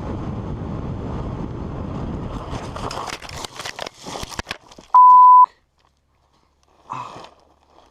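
A noisy rumble, then a quick run of clattering knocks, then a loud electronic beep at one steady pitch lasting about half a second, cut off into silence, with a short burst of noise near the end.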